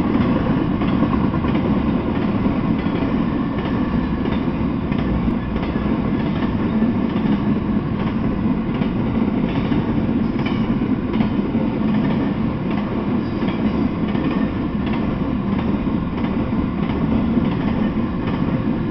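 Intermodal freight train cars of containers and semi-trailers rolling past: a steady rumble of steel wheels on rail with occasional clicks as the wheels cross rail joints.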